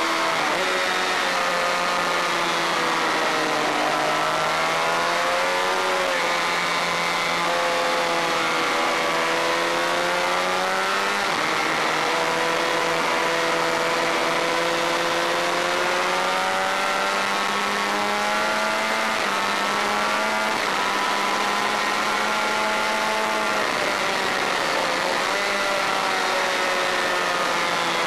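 Honda VFR400 racing motorcycle's V4 engine running hard at high revs, its pitch climbing steadily and then dropping sharply at each gear change, several times over, with a constant rushing noise underneath.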